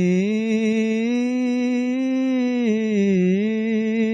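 A solo unaccompanied voice singing a naat, holding one long drawn-out note without words. The pitch dips and recovers near the start and again about three seconds in.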